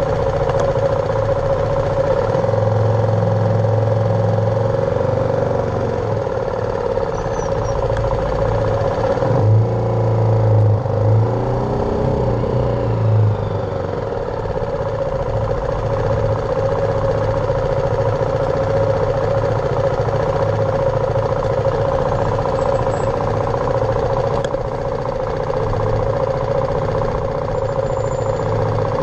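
BMW G310R's single-cylinder engine running steadily under way, with the engine note shifting up and down for a few seconds in the middle.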